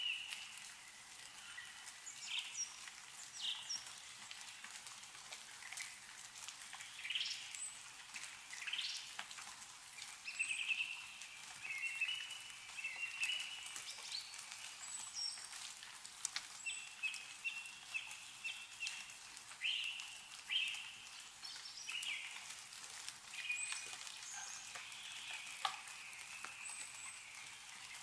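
Several small birds chirping and trilling in quick, overlapping calls, with scattered light drips of meltwater falling from snowy trees.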